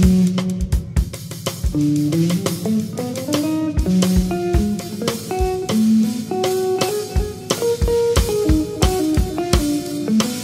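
Jazz band playing an up-tempo number, with guitar lines over drum kit and bass.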